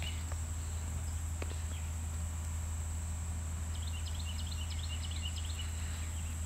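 Creekside outdoor ambience: a bird sings one quick phrase of short, high chirping notes a little past halfway, over a steady high-pitched whine and a steady low hum.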